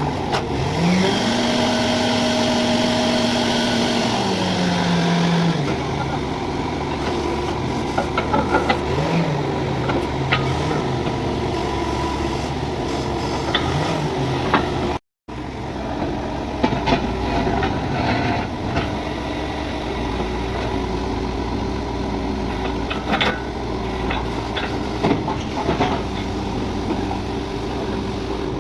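Borewell drilling rig's engine revving up, holding, then dropping back, and running on with scattered sharp knocks.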